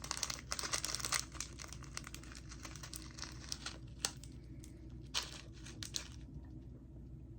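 Plastic snack wrapper crinkling as it is handled and opened. The crinkling is busiest in the first second or so, then turns to scattered crackles.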